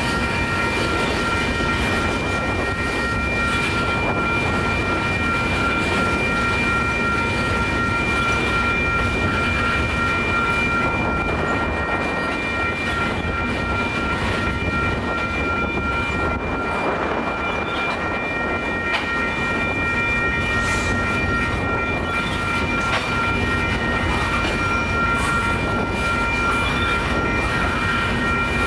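Freight train of tank cars rolling steadily through a grade crossing, its wheels clattering over the rail joints and the crossing. Over it runs a steady high ringing that does not let up, most likely the crossing's warning bell.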